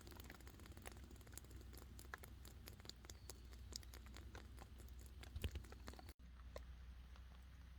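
Fog condensation dripping onto a tarp in faint, irregular taps and patters, like light rain though no rain is falling. The drips thin out after a short break about six seconds in.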